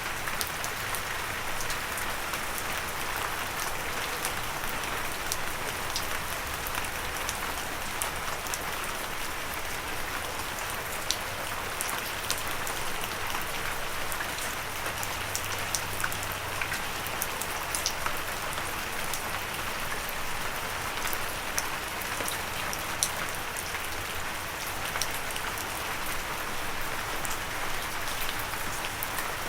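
Steady light rain falling, an even hiss with many sharp individual drops pattering close by.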